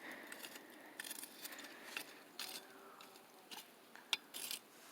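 A small fire crackling faintly, with scattered irregular snaps and pops over a low hiss.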